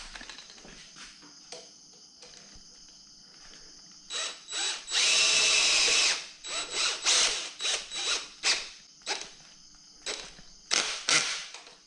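Tools working a fastener on a motorcycle under rebuild: a power tool runs steadily for about a second midway, followed by a string of short ratcheting strokes and two more near the end.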